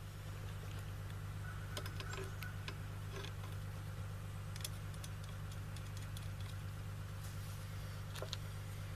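Scattered light clicks and taps of small metal rifle parts (rail sections and mounts) being handled and fitted, over a steady low hum.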